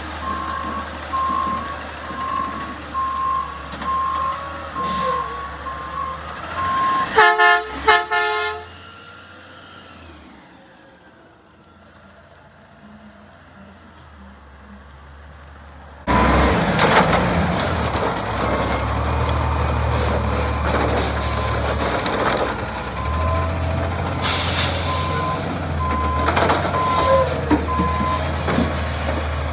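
Garbage truck engine running while its backup alarm beeps steadily, about one beep a second. About seven seconds in comes a short, loud blast. After a quieter stretch the truck is heard again, running and reversing with the beeper going.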